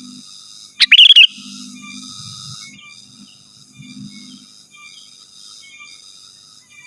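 Sooty-headed bulbul giving one loud, brief, wavering call about a second in, over faint, steady high chirring.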